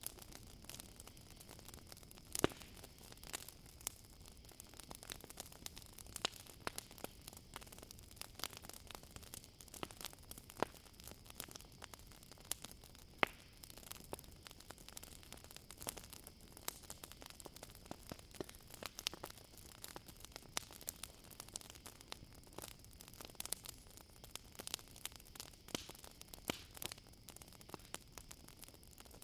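Campfire crackling with irregular sharp pops, a few louder than the rest, over a steady high trill of crickets.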